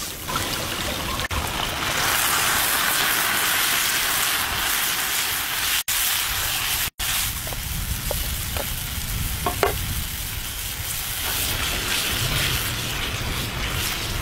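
Chicken pieces sizzling in a hot pan over a wood fire as a white liquid is poured in and bubbles: a steady frying hiss that grows louder about two seconds in, broken by two brief dropouts.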